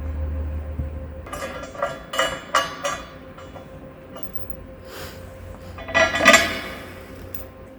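Steel sawmill bed parts clanking and clinking as they are handled and fitted together: a quick run of about four ringing metal knocks, then a louder clank near the end.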